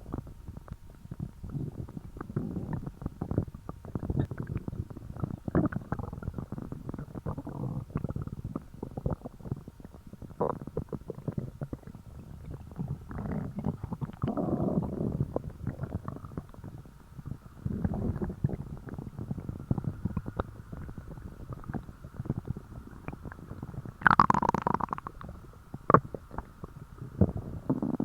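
A fasting person's empty stomach rumbling and gurgling in irregular runs, dotted with short pops. It is louder and higher-pitched in one squealing gurgle near the end.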